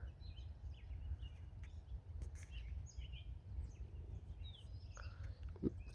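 Faint, scattered short bird chirps, a few notes a second, over a steady low rumble.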